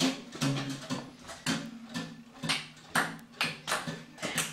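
Table tennis ball in a rally, clicking sharply off bats and table about two to three times a second, slightly quicker near the end.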